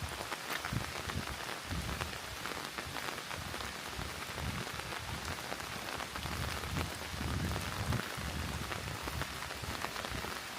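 Steady rain falling, with many small drops ticking on surfaces close by.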